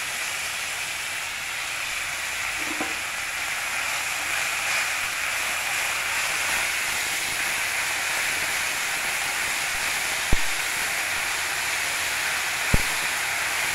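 Fresh mint leaves and dried red chillies frying in hot oil in a nonstick pan, a steady sizzle as they are stirred with a wooden spatula. Two sharp knocks near the end, the spatula striking the pan.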